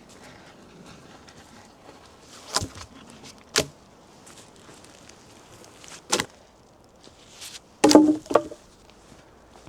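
Scattered sharp wooden knocks: single strikes about 2.6 s and 3.6 s in, another about 6 s in, and a louder burst of two or three knocks near the end, over a faint steady hiss.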